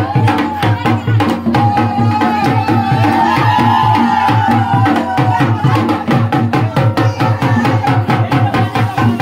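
Loud festival music: drums beating a fast, steady rhythm, with a held melody bending up and down above them through the first half.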